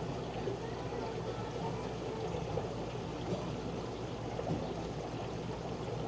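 Steady running and trickling water from the filters and circulation of a room full of aquarium tanks.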